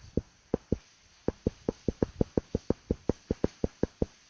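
A rapid, fairly even run of short knocks, about five a second, each with a slight ring.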